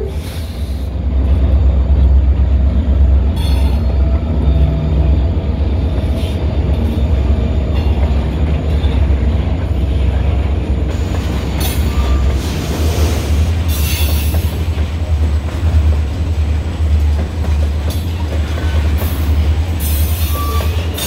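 Freight train rolling past close by: the trailing EMD SD40-2 diesel locomotive at the start, then covered hopper cars, with a steady low rumble of wheels on rail and a few short, faint wheel squeals.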